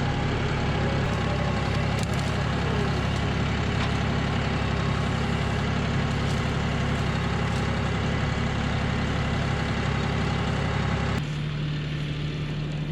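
John Deere 5075E tractor's diesel engine running steadily. About eleven seconds in it changes abruptly to a quieter, steadier hum.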